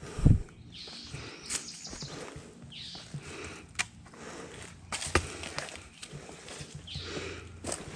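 Footsteps of a person walking outdoors, a rustling step every second or so, with a heavy thump just after the start.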